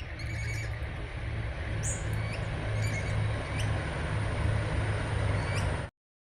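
Birds giving short, high, upward-flicking calls over a steady low rumble; the recording cuts off abruptly near the end.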